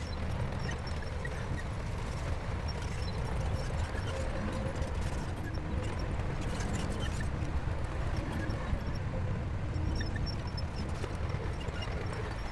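Shantui crawler bulldozer's diesel engine running steadily under load, with irregular clanks and clicks from its steel tracks.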